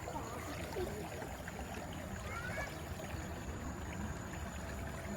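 Steady wash of river water moving along a tour boat's hull, with a low rumble underneath. Two short rising chirps come about halfway through.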